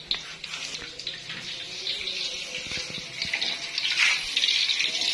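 Battered banana pieces deep-frying in hot oil in a wok: a dense crackling sizzle that grows louder near the end.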